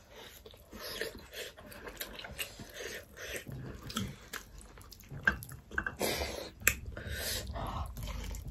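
Close-up eating sounds: chewing and wet mouth smacks with irregular sharp clicks, as grilled pork and rice are eaten by hand.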